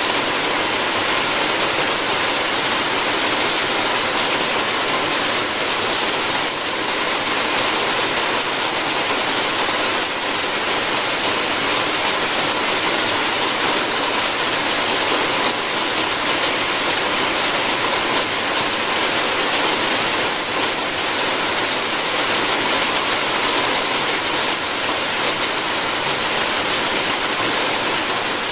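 Steady heavy rain falling on a roof, a dense even hiss of drops with faint scattered ticks.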